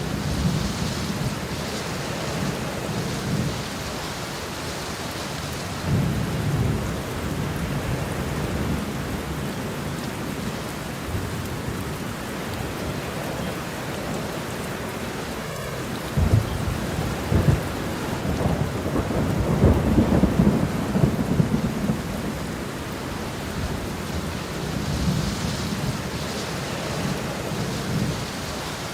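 Steady rain falling through a thunderstorm, with low rolling thunder rumbling several times. The longest and loudest stretch of thunder comes from about sixteen to twenty-two seconds in.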